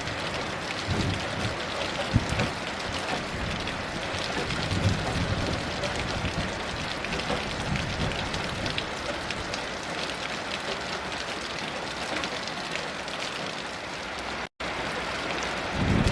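Steady heavy rain, with many individual drops pattering on a surface and a few low rumbles of distant thunder. The sound cuts out for a split second near the end.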